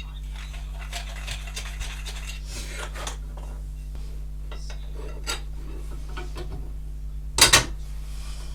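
Metal parts being handled: light clinks, taps and rubbing, with a loud double clank about seven and a half seconds in, over a steady low hum.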